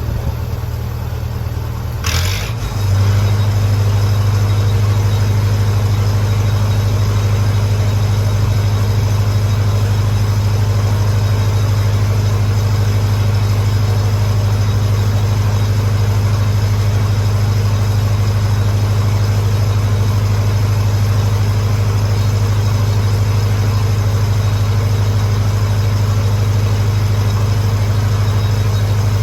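Lincoln SA-200 engine-driven welder's gasoline engine running steadily. About two seconds in there is a short sharp burst, and the engine then settles into a louder, steady run.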